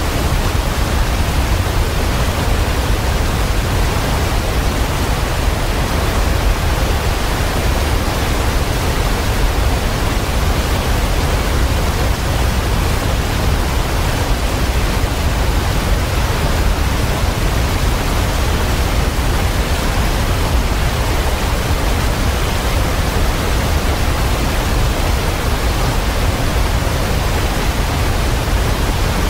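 Waterfall pouring steadily: a dense, unbroken rush of water, heaviest in the low rumble.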